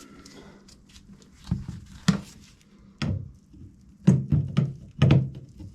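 A series of knocks and thunks in a small room: single hits about a second apart, then a quicker run of knocks near the end, over a faint steady low hum.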